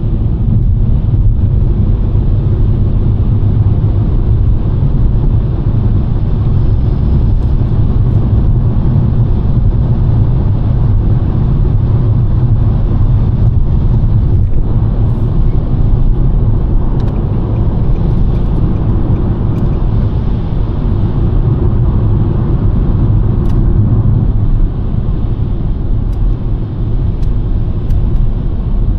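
2023 Nissan Sentra driving on a snowy road: a steady, low rumble of tyre and engine noise, dipping slightly in level near the end.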